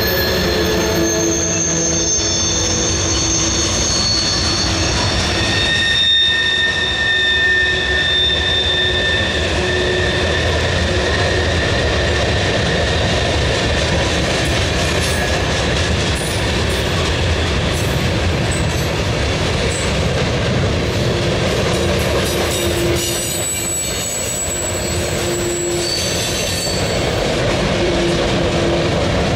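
Freight cars of a mixed manifest freight train rolling past: a steady rumble of steel wheels on rail, with high wheel squeal over the first several seconds that then fades, and scattered clicks of wheels over the rail joints.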